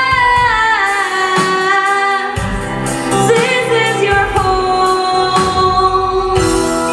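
Song with a singing voice over instrumental accompaniment; the melody slides between notes and holds long ones.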